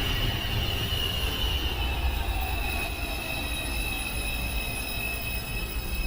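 Subway train running with its wheels squealing: several high steady tones over a low rumble, the strongest tone dropping a little in pitch about two seconds in.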